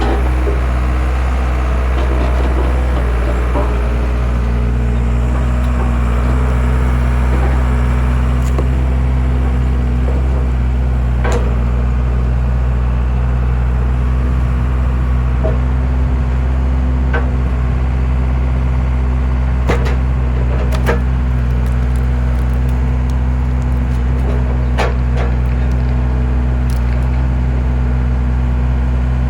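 Skid steer engine running steadily while powering a homemade log splitter, with a handful of sharp cracks and knocks from wood being split.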